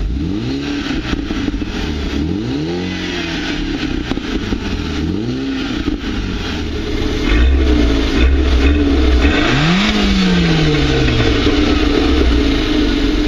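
A parked car engine being revved at standstill, heard close to its exhaust tailpipes. It gives a series of throttle blips that each rise and fall in pitch. The loudest stretch has a deep exhaust rumble, and ends about ten seconds in with a long rev that falls slowly back toward idle.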